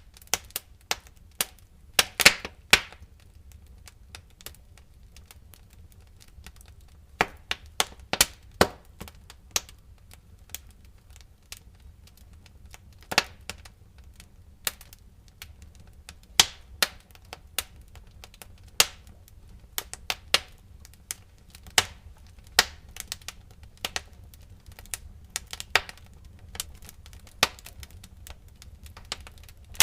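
Wood fire burning in a fireplace, crackling with irregular sharp pops of varying loudness over a low, steady rumble of flame. The loudest pops come in clusters about two seconds in and around eight seconds.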